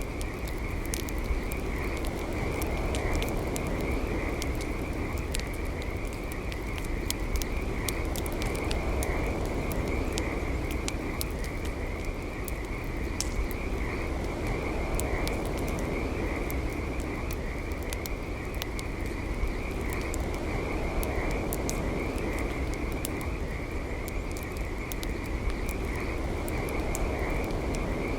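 Campfire crackling with frequent sharp pops and a steady low rumble, under a continuous high trilling chorus of frogs.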